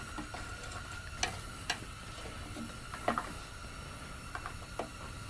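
Faint, scattered light clicks and taps, about half a dozen over a few seconds, from small parts of a chainsaw's fuel system being handled, over a steady faint hum.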